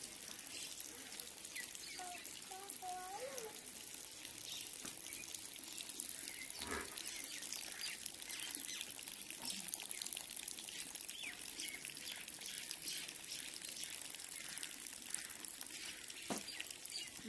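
Steady rain falling, an even hiss of drops with dripping. A few short chirps come about two seconds in, and there are a couple of sharp knocks.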